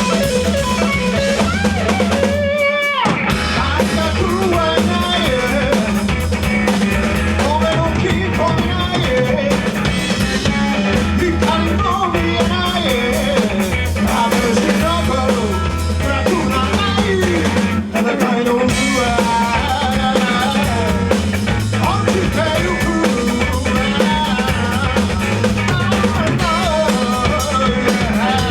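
Rock band playing live: drum kit, electric guitar and bass, with some singing. The band breaks off briefly twice, about three seconds in and again near the end.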